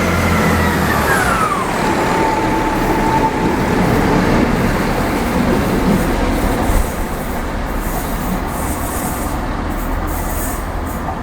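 A train going past, its whine dropping in pitch as it passes, then the steady rumble of the train running by.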